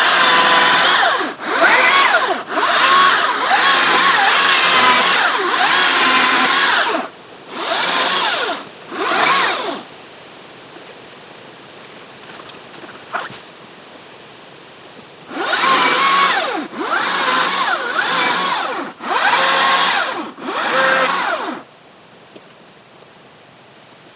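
Gas chainsaw revving up and down in repeated bursts as it cuts through branches and logs. There are two spells of cutting with a pause of several seconds between them.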